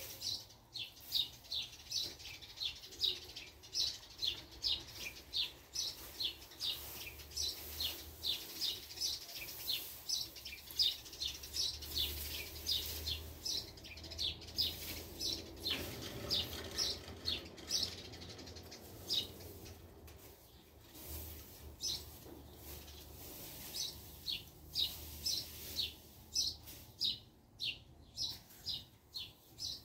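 A bird calling one short, high chirp over and over, about two to three a second, stopping for a few seconds past the middle and then starting again.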